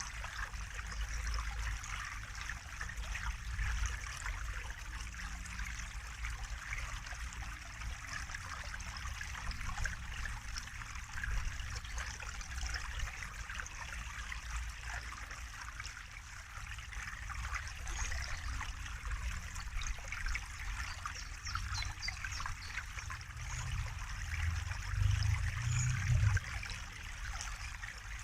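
Water trickling and splashing steadily, like a small stream running over stones, with a low rumble that swells briefly near the end.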